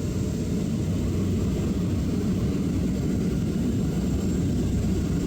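Small propeller airplane's engine droning steadily in flight, an even low rumble.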